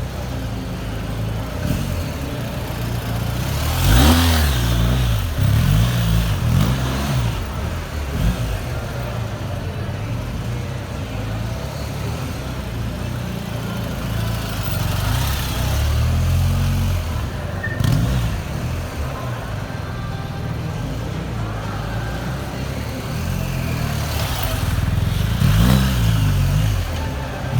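Motorcycle engines revving and passing by, their pitch rising and then falling, with the loudest passes about four seconds in and again near the end.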